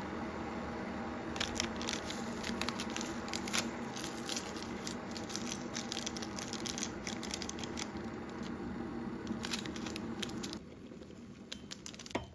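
Soft background music with sustained chime-like tones, fading out near the end, over repeated rustling and crinkling as clothing or wrapping is handled.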